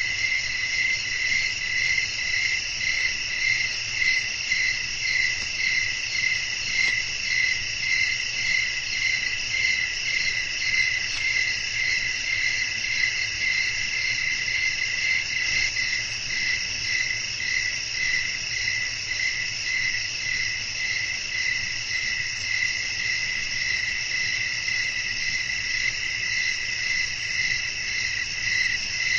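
Night chorus of crickets chirping steadily at several pitches, one voice pulsing in a regular trill about twice a second.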